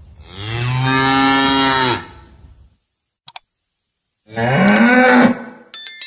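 Two cow moos: a long, low, steady moo lasting about two seconds, then a shorter one that rises in pitch about four seconds in. Between them come two quick clicks, and near the end a bright ding.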